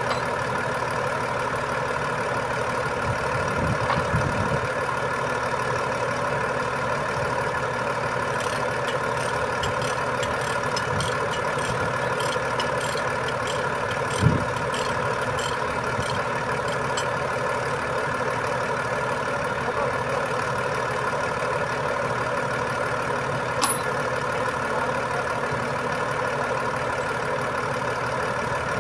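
Heavy diesel engine running steadily, with a faint fast ticking for several seconds midway and two short knocks, one around the middle and one near the end.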